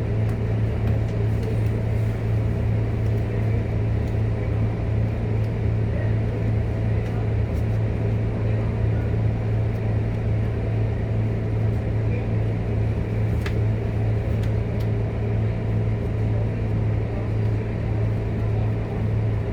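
Scania K230UB Euro V bus's diesel engine running with a steady low drone, even in level throughout, with two faint clicks about two-thirds of the way through.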